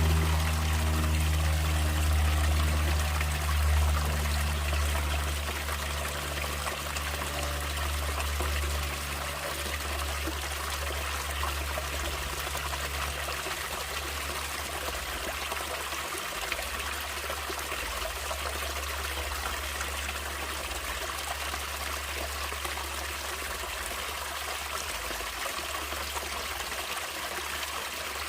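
Natural running water of a stream trickling and flowing steadily. A low held chord fades out under it over the first seven or eight seconds.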